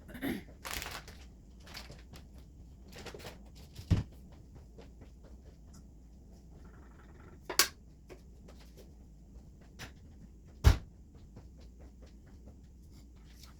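Kitchen items being handled and set down while tidying: scattered small clicks and rustles, with a few sharp knocks, the loudest late on.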